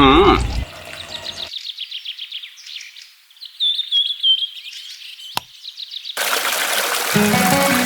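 Small birds chirping in short, repeated high phrases, with a single sharp click about five seconds in. Near the end a steady hiss comes in and music starts up under it.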